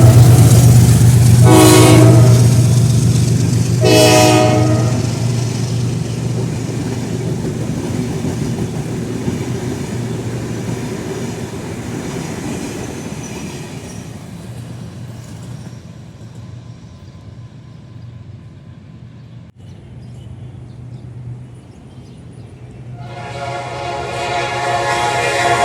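General Electric diesel locomotive sounding two short horn blasts as it runs past, its engine drone and the train's running noise fading as it moves away. About three seconds before the end, a long horn blast comes in and grows louder.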